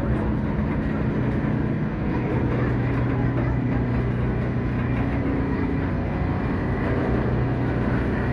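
Canadian Pacific Holiday Train's diesel locomotive running steadily, a low even hum with a constant rumble.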